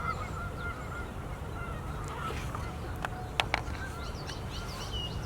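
Birds calling in the background: short repeated calls early on and higher chirps later, over a steady low rumble, with two sharp clicks close together about three and a half seconds in.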